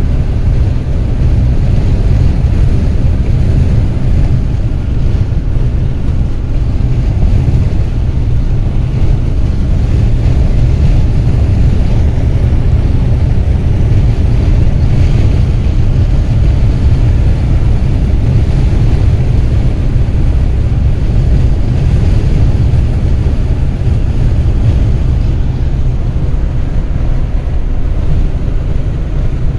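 Wind buffeting the microphone: a loud, steady low rumble with a fainter rushing hiss above it.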